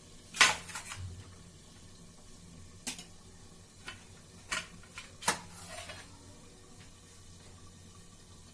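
Cookware clinking against a kadai: a series of sharp metal clinks and clatters, the loudest about half a second in, the last a little over five seconds in.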